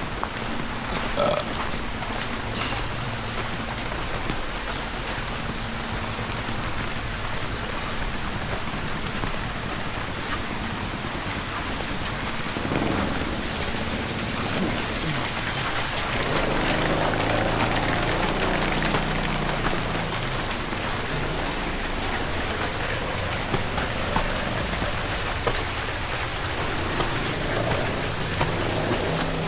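Steady rain falling, with a low hum rising partway through.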